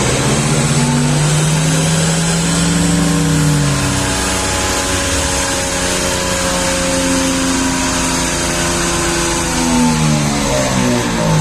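Hyundai Tucson 1.7 CRDi turbodiesel engine pulling hard under load after an ECU remap, its pitch held high for several seconds, then dropping near the end as the revs fall.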